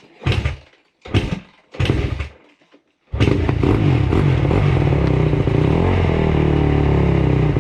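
2008 Honda CRF150R's four-stroke single-cylinder engine being kick-started: three short bursts as it is kicked over without catching, then it fires about three seconds in and runs steadily.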